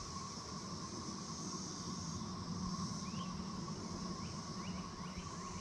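Steady outdoor chorus of insects droning, with a few short rising chirps over it in the second half, most likely birds.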